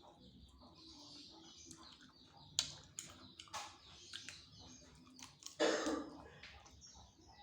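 Close-up mouth sounds of eating a spicy chicken wing: small wet clicks and smacks of chewing, with sharper clicks about two and a half to three and a half seconds in, and a louder half-second rush of breath or noise a little before six seconds in.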